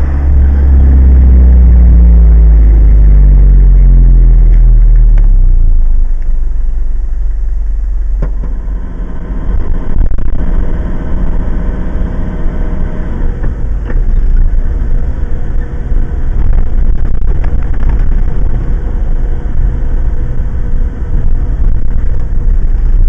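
Car engine and tyre rumble heard from inside the cabin while driving slowly. In the first few seconds the engine note falls as the car slows. After a dip, the low rumble runs steadily.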